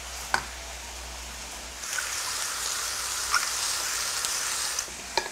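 Capsicum and tomato sizzling in a hot stainless pressure-cooker pot, with a light click just after the start. From about two seconds in, a louder gritty hiss runs for about three seconds as salt is ground over the pot.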